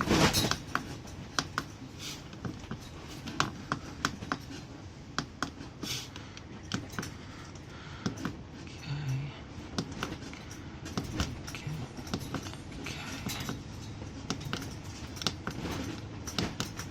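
Buttons on a diesel heater's control panel clicking as they are pressed while stepping through its settings: irregular sharp clicks and taps, one or two a second.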